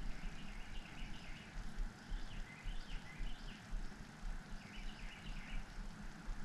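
A small bird chirping in short bursts of quick notes every second or two, over a low, uneven rumble.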